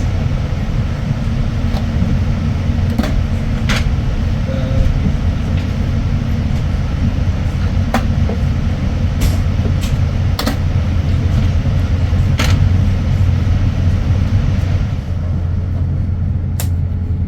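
Cabin noise of a Boeing 787-9 airliner: a steady low rumble and hum, with scattered sharp knocks and rattles. The hiss in the upper range drops away near the end.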